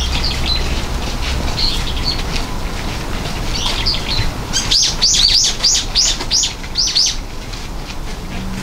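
Small songbird calling: scattered high chirps, then a rapid run of about a dozen sharp, falling chirps, some four or five a second, from about halfway through for a couple of seconds.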